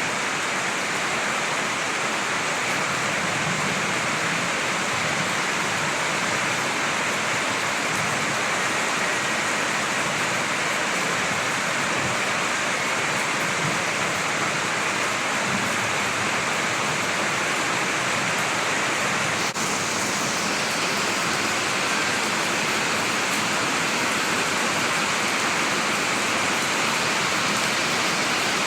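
Steady heavy rain, a dense even hiss of falling water with no distinct drops standing out.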